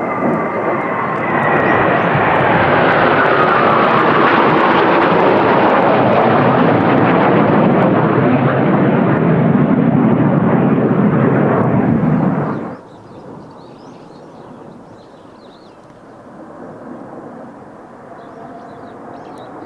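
Kawasaki T-4 jet trainers passing low overhead: a loud jet roar with a whine that falls in pitch as they go by. The roar stops abruptly about two-thirds of the way through, leaving a fainter distant jet rumble.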